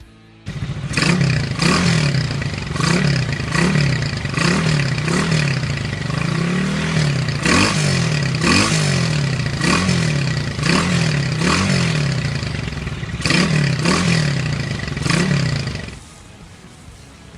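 Single-cylinder engine of a 1981 Honda CG ML motorcycle, bored to 230cc, revved in quick throttle blips about once a second through a straight 'estralador' crackle exhaust, which crackles and pops as each rev falls. The engine sound drops away near the end.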